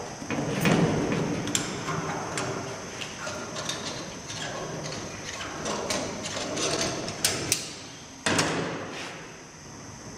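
Irregular clicks, taps and clatter of small metal parts and hand tools being handled, with a couple of sharper knocks about seven and eight seconds in, over a steady high tone.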